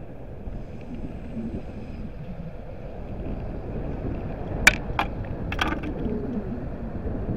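Passenger multiple-unit train running through on the far line, a low rumble of wheels on rail that grows as it passes, with a few sharp clacks, the loudest a little under five seconds in.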